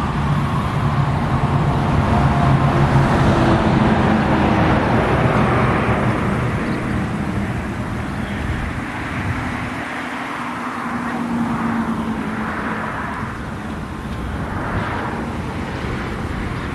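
Steady outdoor vehicle noise, like road traffic going by, with a faint hum that slowly shifts in pitch; it is loudest in the first few seconds and eases off a little after about six seconds.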